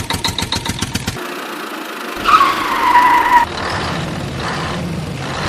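Tractor engine chugging at a fast even beat, about seven knocks a second, which breaks off about a second in. A tyre screech follows, a loud squeal that falls slightly and lasts about a second, then a steady skidding hiss, with the screech starting again at the very end.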